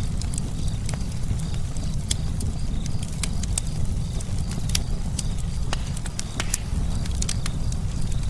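Campfire burning: wood crackling and popping in irregular sharp snaps, several a second, over a steady low rumble.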